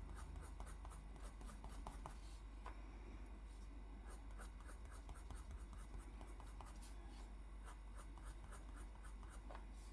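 Faint, quick strokes of a drawing tool on paper, repeated in short runs as an area is coloured in.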